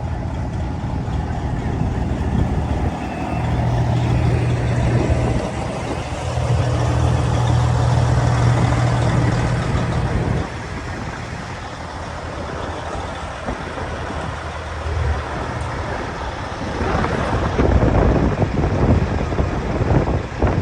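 Diesel truck engine idling: a steady low hum that grows loud a few seconds in and cuts off suddenly about ten seconds in, over a constant background noise.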